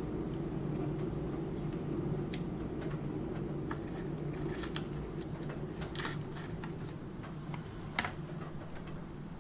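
Computer keyboard keystrokes, sparse and irregular clicks with one sharper key tap near the end, over a steady low background rumble.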